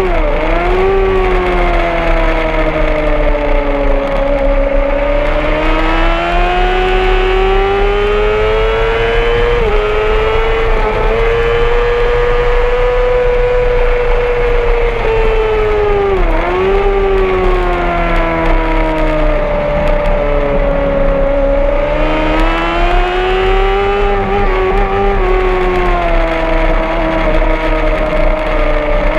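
Honda CBR600RR's inline-four engine at high revs on track, its pitch swelling and sagging through the corners, with sharp quick dips about half a second in and again about halfway that sound like gear changes.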